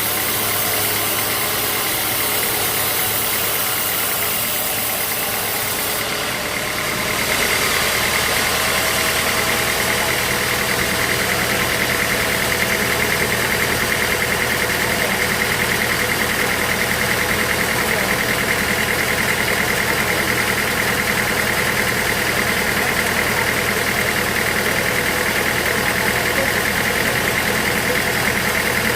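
Sawmill machinery running steadily. About seven seconds in it gets louder and a steady high whine joins it, holding to the end.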